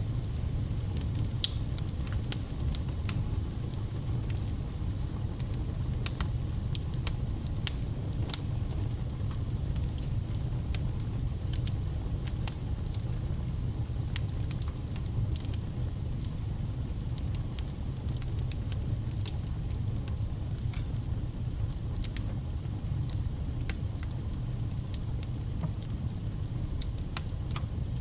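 Burning wood fire crackling: irregular sharp pops and snaps scattered throughout over a low steady rumble.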